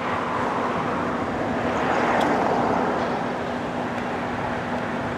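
Steady motor-vehicle noise: a constant rushing sound with a low steady hum, swelling a little in the middle and easing off.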